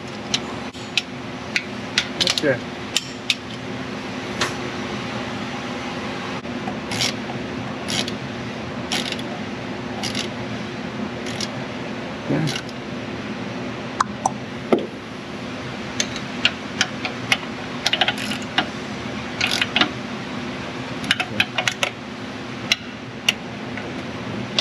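Hand tools clinking and tapping on metal engine parts in irregular, sharp clicks, some with a short ring, over a steady hum.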